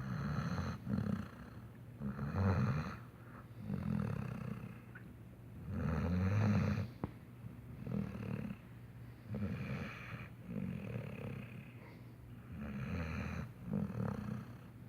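Saint Bernard puppy snoring in its sleep, a snore about every one to two seconds.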